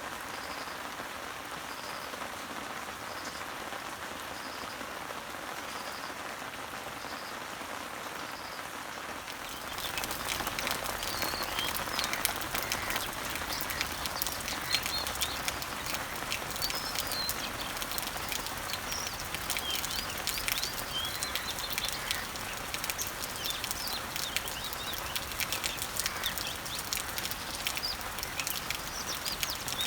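Rain falling on leaves and trees, a steady hiss, with a faint high bird note repeating regularly at first. About ten seconds in it abruptly gets louder, with dense pattering drops and birds chirping over the rain.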